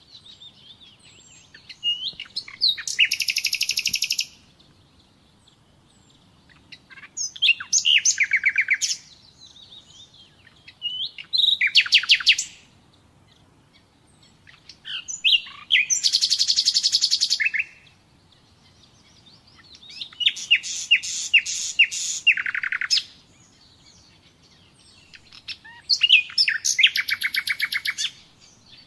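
Common nightingale singing: six separate phrases of fast, rapidly repeated high notes, each lasting one to three seconds, with pauses of a few seconds between them.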